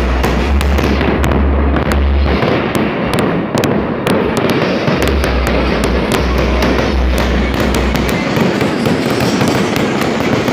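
Fireworks going off: a loud, dense, continuous crackle of many rapid pops.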